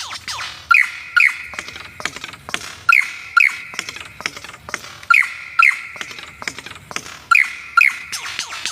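Murai (white-rumped shama) song for masteran training: rapid, continuous chattering notes with a pair of clear whistled notes repeating about every two seconds.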